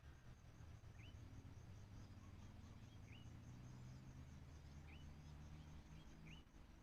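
Faint outdoor ambience: a small bird giving short, high, upward-flicking chirps about once a second, over a fast, even pulsing of insects and a low steady hum.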